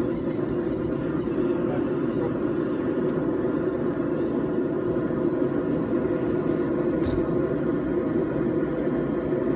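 A forge running with a steady drone, with one faint tick about seven seconds in.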